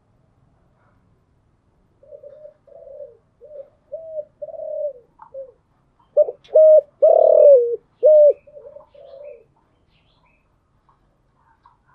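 Spotted dove cooing: a phrase of low, hollow coos that starts about two seconds in, grows loudest in the middle and stops a few seconds before the end.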